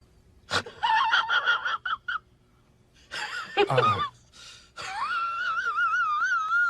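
A sound effect of high, squeaky wheezing in three parts: a run of short squeaks, a brief falling squeal, then one long warbling high wheeze.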